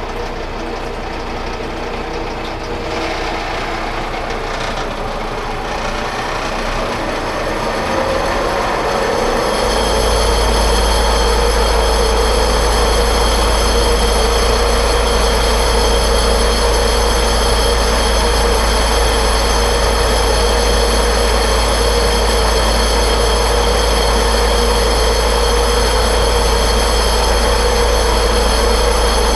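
Metal lathe in back gear drilling into steel with a 1-inch Morse-taper twist drill. The sound grows louder over about the first ten seconds, then holds steady: a low hum with several steady high-pitched tones over the cutting noise.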